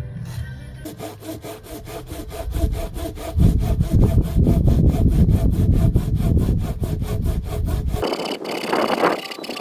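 A saw cutting through firewood with quick, even strokes, louder from about three seconds in, until the sawing stops near the end.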